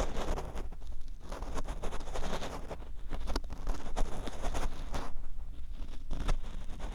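An ear pick scraping and rubbing in the ear of a 3Dio binaural microphone, very close and grating, in quick irregular strokes with small clicks, over a low rumble.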